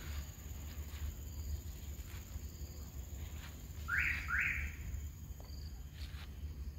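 A bird gives two short rising calls in quick succession about four seconds in, over a steady low rumble and a thin, steady high insect tone.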